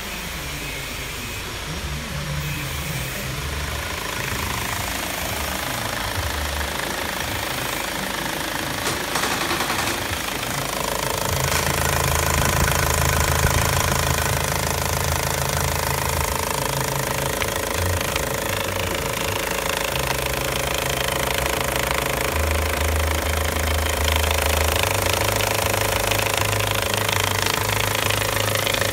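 Ford Focus 1.8 TDDi (C9DB) four-cylinder turbodiesel engine running steadily. About eleven seconds in it gets louder and a steady higher tone joins in.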